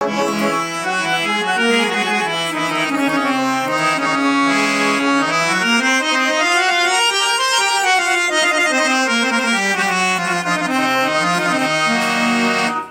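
Harmonium fitted with a Casio keyboard, reeds and keyboard sounding together in an organ-like tone, playing a melody over held chords. Partway through, the melody runs down and then back up, and the playing stops abruptly at the end.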